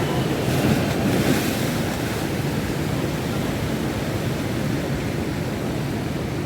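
Monsoon sea surf in strong wind: a steady rush of breaking waves with wind buffeting the microphone. A wave washes in brighter and louder about a second in.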